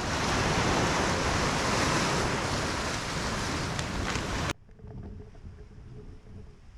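Wind buffeting the microphone and sea water rushing past a sailing kayak, loud and steady; about four and a half seconds in it cuts off abruptly to much quieter water sounds with a faint steady tone.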